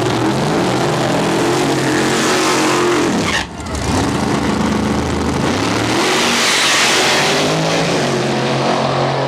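Loud race engine running and revving, with a short drop in level about three and a half seconds in.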